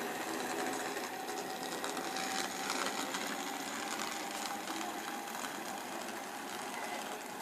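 Train passing through the station on the main line: a steady rush of wheels on rails with rapid fine clicking and a faint steady whine.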